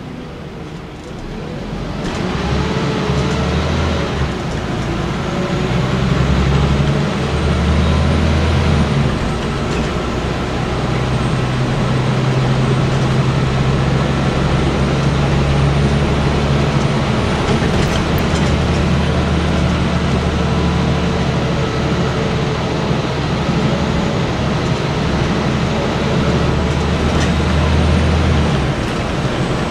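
Scania N94UB single-deck bus running on the road, heard from inside the saloon: a low engine drone over road and body noise. It grows louder about two seconds in as the bus picks up, and the engine note shifts several times as it goes.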